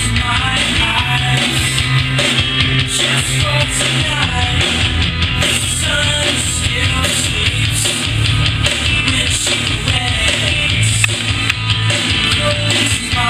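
Rock music with drums and guitar and a heavy bass line, played through an Aiwa NSX-999 mini hi-fi stereo system.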